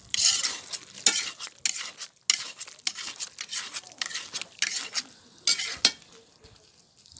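Food being stirred and scraped in a kazan: a run of quick scraping strokes, about two a second, that stops near the end.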